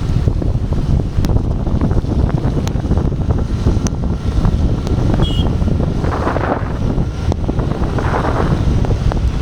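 Wind buffeting the microphone while riding, a loud steady low rumble with scattered sharp clicks. Two brief hissing swells come through about six and eight seconds in.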